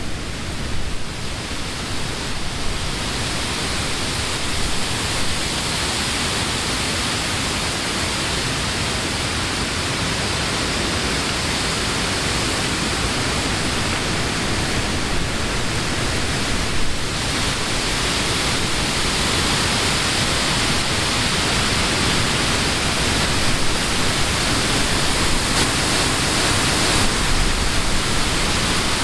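Wind blowing steadily through leafy trees, a dense rushing of leaves that swells and eases slightly, with a short lull about two-thirds of the way through.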